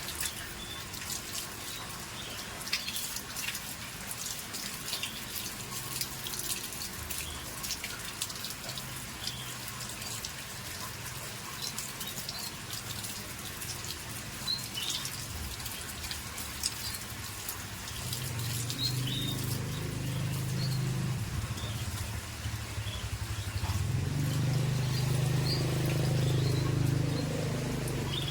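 Canary giving scattered short chirps among small clicks and taps. A low hum comes in about two-thirds of the way through and grows louder near the end.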